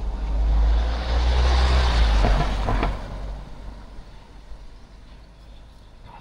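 A motor vehicle passing close by, growing louder to a peak about two seconds in and fading away by three seconds.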